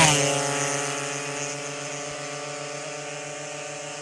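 Drag-race car engine: its note dips in pitch and fades over about the first second and a half, then holds a steady, fainter drone.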